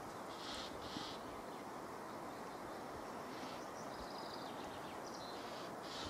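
Faint, short, harsh bird calls, several times over, above a steady outdoor hiss.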